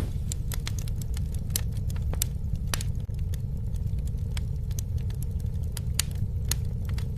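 A campfire burning: a steady low rumble with irregular sharp crackles and pops.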